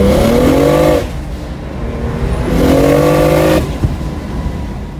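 Single-turbo N54 straight-six of a BMW 135i at full throttle on a 23 psi boost pull, revving up twice: it climbs for about a second, drops off as the throttle is lifted, then climbs again and is lifted again a little over halfway through. The lifts come as the rear wheels lose traction and the car goes sideways.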